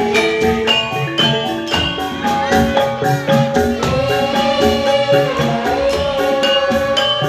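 Javanese gamelan music accompanying jathilan: struck bronze metallophones ring a quick, busy melody over percussion, with one long held note from about halfway through.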